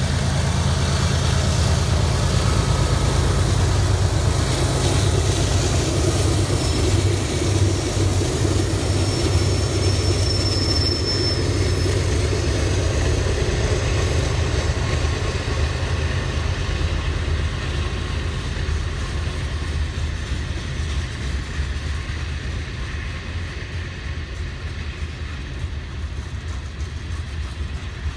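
Diesel freight locomotives pass with a steady low engine drone, then a string of tank cars and covered hopper cars rolls by. There is a short high squeal about ten seconds in, and the sound slowly gets softer in the second half.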